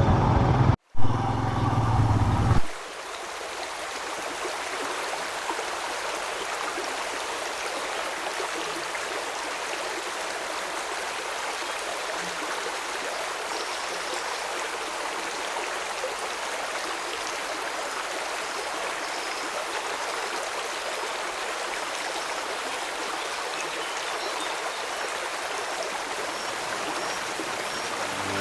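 Background music for the first two and a half seconds, with a brief dropout, then cutting off into the steady rush of flowing water.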